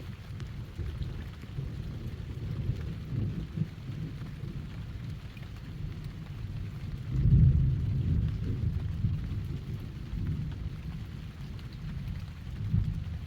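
Thunder rumbling in a heavy rainstorm, a low rumble that swells loudest about seven seconds in and rises again near the end, over the hiss of rain.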